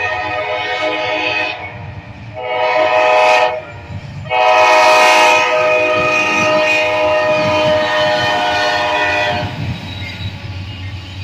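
Multi-chime air horn on a GE AC44C6M freight locomotive, sounding in separate blasts: one ending about a second and a half in, a short one around three seconds in, then a long one of about five seconds that stops near the end. Underneath, the low rumble of the passing freight train continues.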